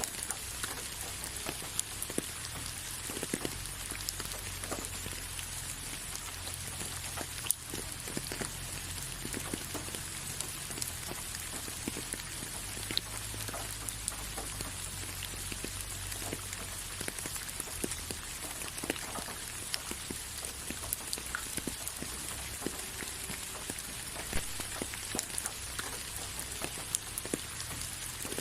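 Steady rain falling, with many separate drops ticking against a surface over an even hiss and a low steady rumble underneath.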